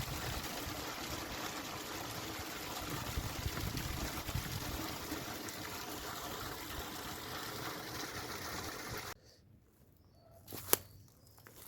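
Stream water running steadily, with wind buffeting the microphone in low gusts. About nine seconds in it cuts off abruptly, leaving a much quieter scene with one sharp click near the end.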